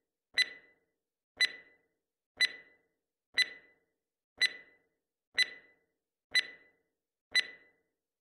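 Countdown beeps: eight short electronic beeps, one each second, counting down to the start of a one-minute sprint interval.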